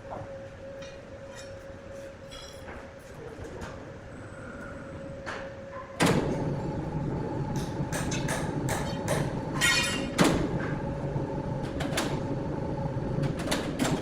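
Wood-cutting saw machinery running with a steady hum and scattered knocks. About six seconds in, a much louder, rougher noise with a higher hum sets in and continues with repeated clatter and knocks.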